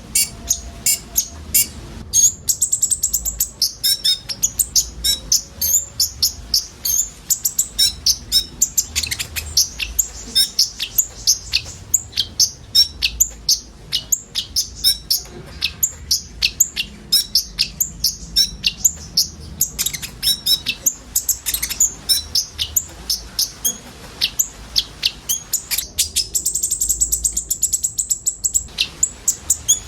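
Konin sunbirds singing: a dense run of rapid, sharp, high chips, broken by fast high trills a couple of seconds in and again near the end.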